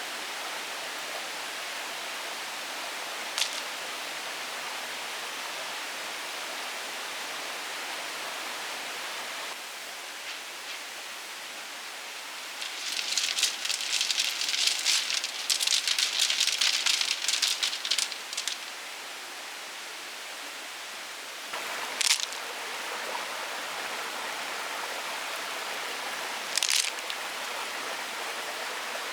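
A steady rushing hiss like running water. In the middle comes about six seconds of louder, dense crackling rattle, and a few short sharp clicks are scattered through the rest.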